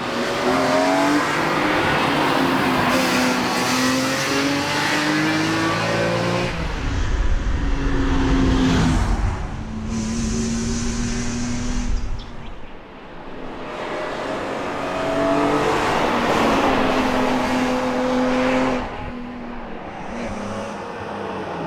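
BMW E46 M3's S54 straight-six racing hard, climbing through the revs and shifting up, with lifts off the throttle in the middle and near the end before pulling hard again.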